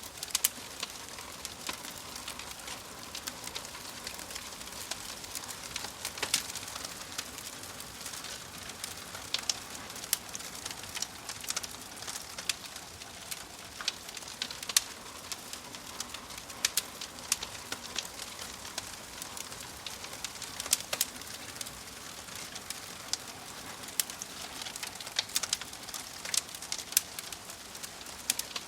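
Fire crackling: a steady hiss with sharp, irregular pops and snaps scattered throughout.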